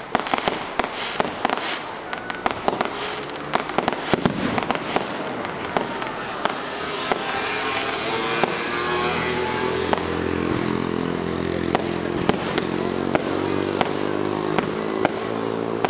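Aerial fireworks bursting: a rapid run of sharp bangs and crackles in the first few seconds, then louder single reports spaced a second or so apart. From about halfway a steady drone, rising slightly in pitch, runs beneath them.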